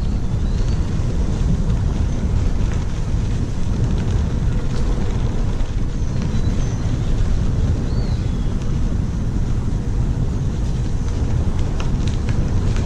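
Wind buffeting the microphone of a camera on a moving bicycle, a steady low rumble, with a few faint, short high chirps over it.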